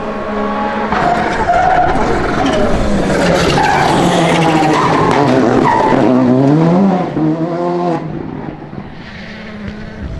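Rally car engine revving hard and changing gear as the car passes at speed on gravel, with the hiss of its tyres sliding on the loose surface; loudest through the middle and falling away sharply about seven seconds in.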